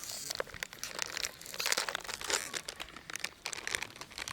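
Packaging being crinkled and rustled by hand, with many small sharp crackles.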